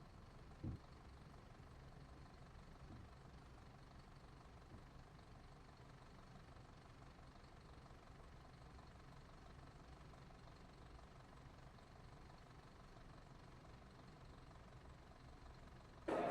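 Faint, steady low rumble of an idling Blue Bird school bus engine, with one soft thump about a second in.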